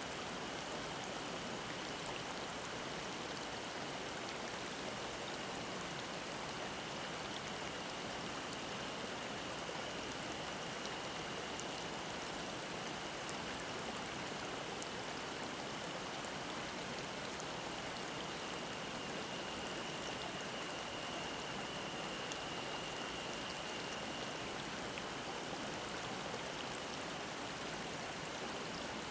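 Mountain stream babbling over rocks, a steady even rush of water. A cicada's thin high drone holds steady above it, a little louder past the middle.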